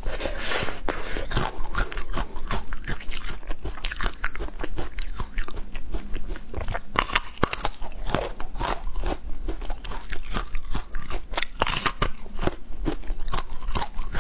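Someone biting and chewing a crunchy spicy snack: a dense, irregular run of crisp crunches.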